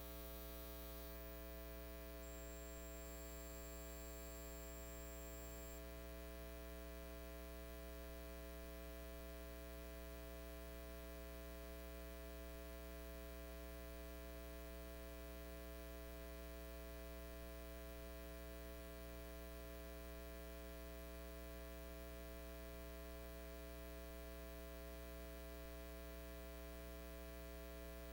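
Steady electrical mains hum with a buzzy stack of overtones, unchanging throughout. This is the hum of the audio or sound system left running after the recitation. A faint thin high tone sounds briefly in the first few seconds.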